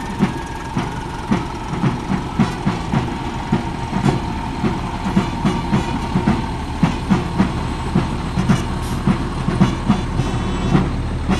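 Footsteps of a parade unit marching in step, about two thuds a second, over a low steady engine rumble.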